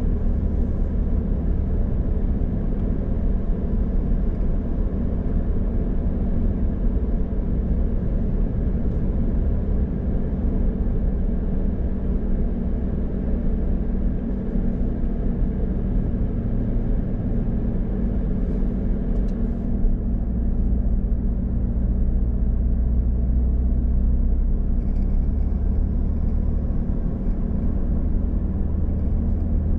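Steady low rumble of a car on the road, engine and tyre noise, with a fainter hiss above it that thins out about two-thirds of the way through.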